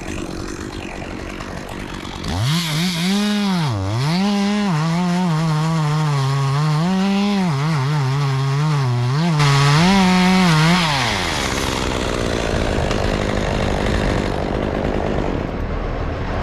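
Two-stroke chainsaw cutting through dead oak, its engine pitch dipping and recovering again and again as the chain bogs and frees in the wood. It starts about two seconds in and stops around eleven seconds.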